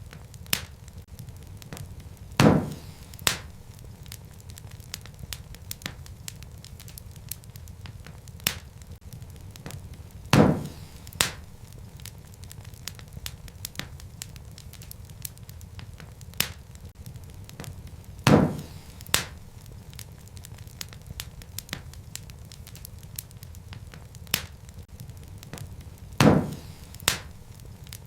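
Wood fire crackling: a steady low rumble of flame under many small ticks, with a pair of louder pops about every eight seconds.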